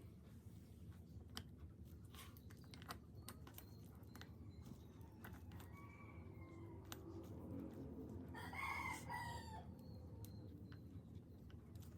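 A rooster crowing faintly once, about three-quarters of the way through, over a low steady hum and scattered small clicks and taps.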